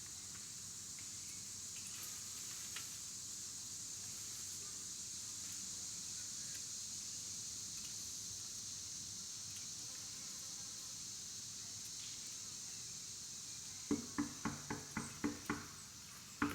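Steady high-pitched insect chorus. Near the end comes a quick run of about eight sharp sounds, roughly four a second.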